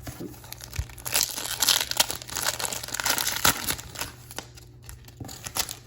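A trading card pack's wrapper being crinkled and torn open, with a dense run of loud crackling for a couple of seconds, then a few lighter rustles.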